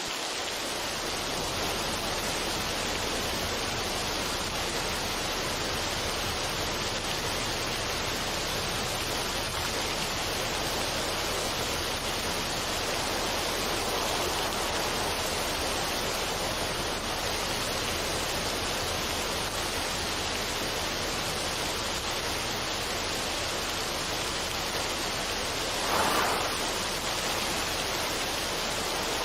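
Steady, even rushing noise like a waterfall or running water, with no music. It holds the same level throughout, apart from a brief louder swell about 26 seconds in.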